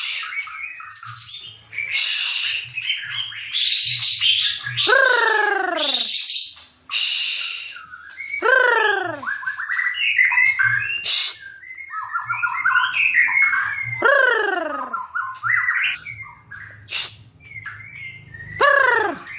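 Songbird singing a long, varied song of rapid chirps, trills and whistles, broken four times by a loud call that falls steeply in pitch.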